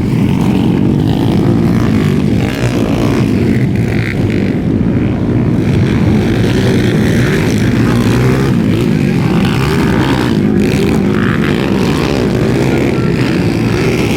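Underbone race motorcycles' engines revving as they race, loud and steady.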